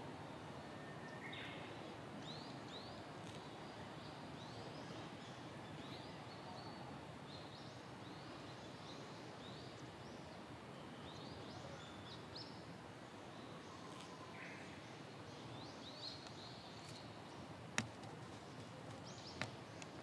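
Faint outdoor ambience with a small bird chirping over and over in the background: short, high, rising notes. Two sharp clicks near the end.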